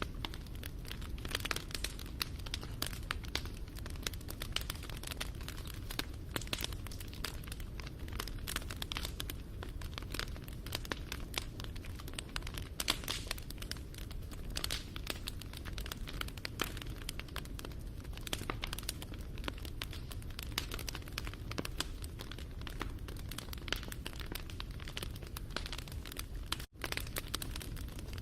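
Wood fire crackling, with dense, irregular pops and snaps over a low, steady rumble of burning. The sound cuts out for a split second near the end.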